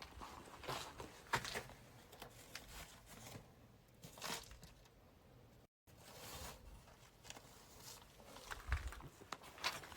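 Faint, irregular crunching and rustling footsteps, roughly one a second, with the sound cutting out completely for an instant about six seconds in.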